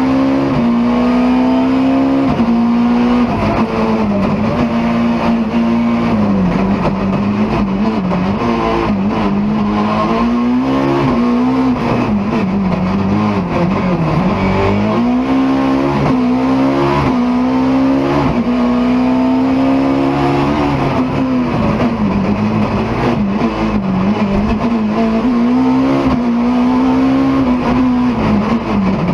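BMW E30 M3's four-cylinder engine at racing speed, the revs climbing and dropping back again and again as it is driven hard through gears and corners.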